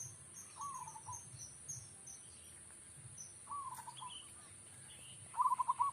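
Zebra dove (perkutut) cooing: a short coo about half a second in, another about three and a half seconds in, and a louder, trilled coo near the end. A steady high insect drone and faint, rapid high chirps run underneath.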